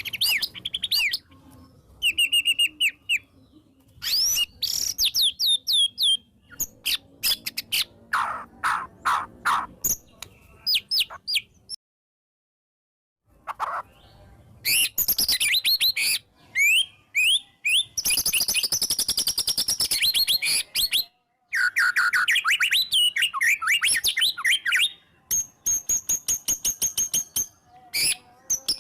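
White-rumped shama singing a loud, varied song of sliding whistles, fast trills and quick runs of sharp repeated notes, as a bird in full song with mimicked fill-ins does. It breaks off completely for about a second and a half near the middle, then goes on.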